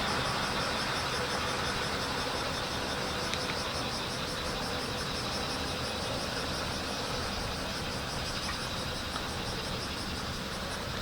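Bear cicadas (kumazemi) singing in a chorus of rapid, evenly repeating high pulses, over a steady low engine-like rumble.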